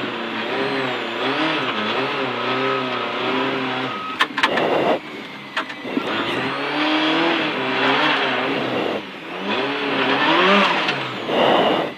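Renault Clio S1600 rally car's engine, heard from inside the cabin, revving up and down again and again with short rushes of noise between. The car is stuck off the road after a brake failure, and the revving is the crew trying to drive it free.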